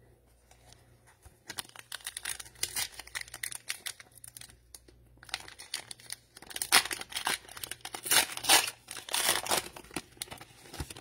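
Cellophane wrapper of an NBA Optic cello pack of trading cards being torn open and crinkled, in two spells of crackling with a short pause between them.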